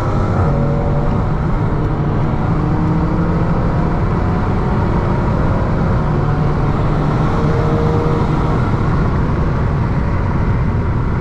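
Car being driven: steady engine and road noise, with the engine's pitch still climbing at the very start.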